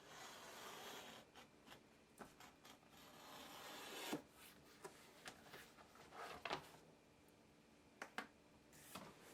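Faint rubbing and scraping from hand work on leather. A longer scrape builds up and ends in a sharp tap about four seconds in, followed by a few scattered light taps and clicks.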